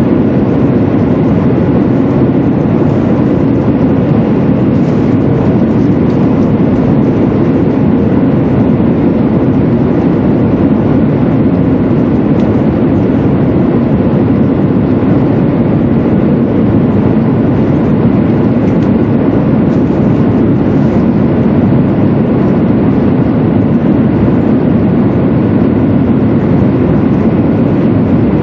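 Interior running noise of a 200 series Tohoku Shinkansen car between stations: a loud, low, even rumble that holds steady throughout.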